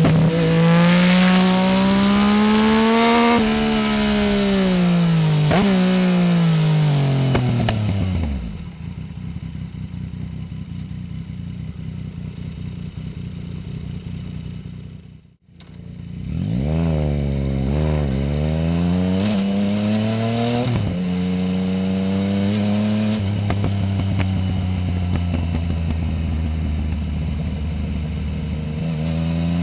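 Yamaha Tracer 900 GT's three-cylinder engine through a full Roads Italia exhaust, accelerating hard and rising through the gears. About 8 s in the engine note dies away, leaving a steady hiss of riding noise, and it briefly cuts out a little later. The engine then pulls up through several quick shifts again and settles into a steady cruise.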